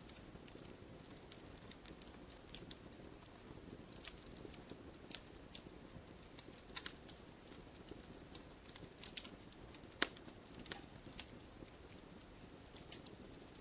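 Campfire burning: irregular sharp crackles and pops of burning wood over a soft low rumble, with a louder pop about ten seconds in.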